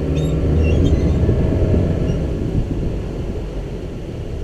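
Tour boat's motor running under throttle, pushing through the trees: a steady low drone, loudest about a second in and easing off toward the end.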